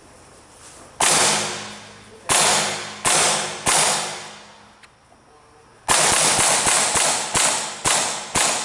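Airsoft gun firing close by: four single shots spaced about a second apart, then a quicker string of about seven shots from about six seconds in, each a sharp crack that dies away.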